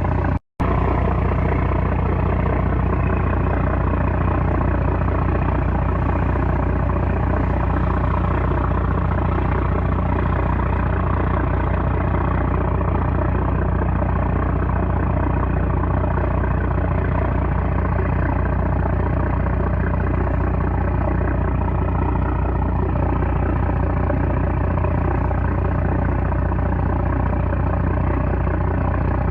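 A 330-horsepower trawler's diesel engine running steadily with a deep, even drone, broken by a momentary dropout about half a second in.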